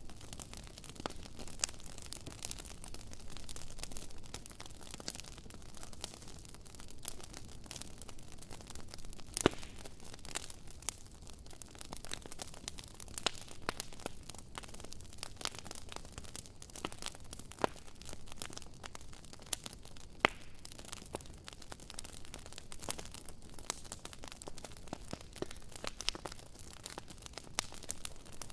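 Wood campfire crackling, with irregular sharp pops and snaps over a low hiss, a few of them much louder than the rest.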